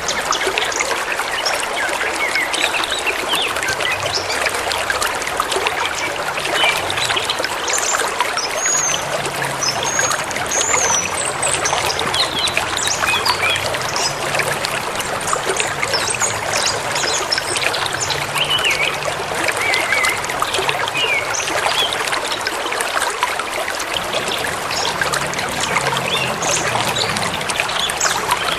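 Forest river flowing steadily over stones as a continuous rush, with scattered short chirps and whistles from songbirds over it.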